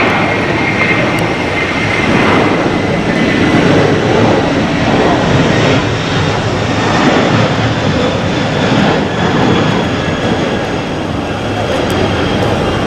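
Jet airliner engines running with a steady, loud rush, and a faint high whine in it.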